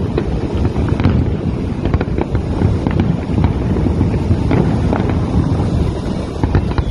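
Fireworks going off: a quick, irregular run of sharp pops and bangs, over a steady low rumble of wind on the microphone.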